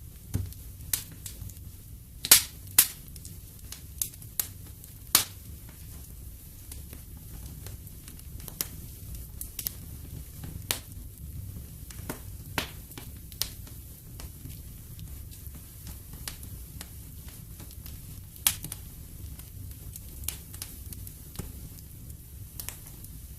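Wood fire in a fireplace crackling, with irregular sharp pops and snaps over a steady low rumble of the flames. The loudest pops come about two seconds in, again soon after, and once more near eighteen seconds.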